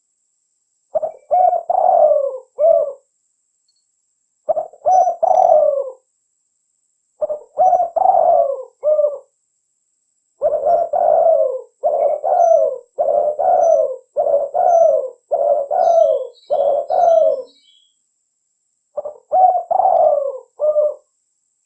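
Spotted dove (derkuku/tekukur) cooing steadily in short repeated phrases of a few coos each, with brief pauses between groups and a longer unbroken run in the middle. Faint high chirps from another small bird come in about three quarters of the way through.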